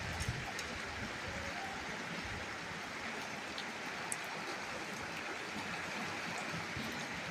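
Steady rain falling, an even hiss with a few sharper drip ticks, one about four seconds in.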